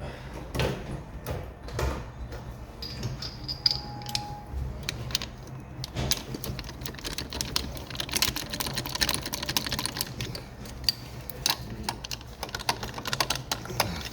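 Rapid, irregular clicking and light metallic tapping of hand tools at work on a diesel engine, thickest from about eight to ten seconds in. A short, faint steady tone sounds near four seconds.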